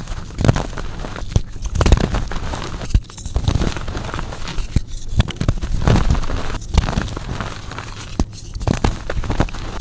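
Blocks of gym chalk being crushed, crunching and crumbling in a string of irregular bursts with sharp crackles.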